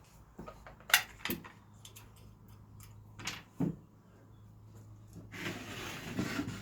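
Workshop handling sounds of wooden fence-picket pieces and tools: several sharp knocks and clicks, the loudest about a second in, then about a second of scraping noise near the end as wood is slid or shifted.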